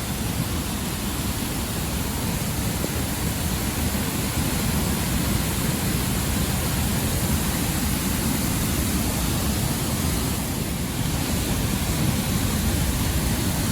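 Steady roar of Niagara Falls, an even rush of falling water.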